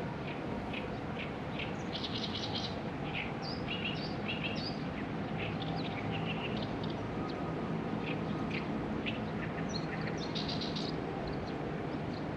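Small birds chirping and twittering in short scattered calls, clustered around two seconds in and again about ten seconds in, over a steady low background hum.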